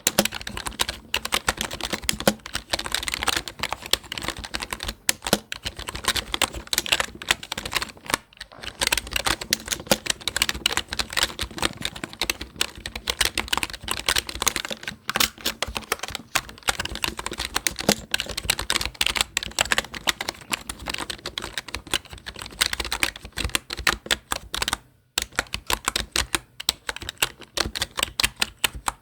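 Typing on a computer keyboard: a fast, dense run of key clicks, broken by brief pauses about eight seconds in and again near the end.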